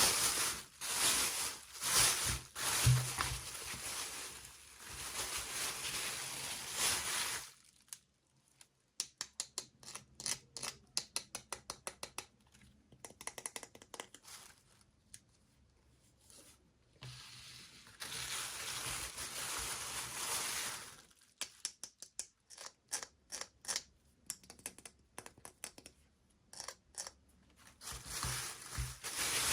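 Toy packaging being handled and opened: plastic wrapping rustling and crinkling, alternating with runs of quick clicks or snips, about five a second.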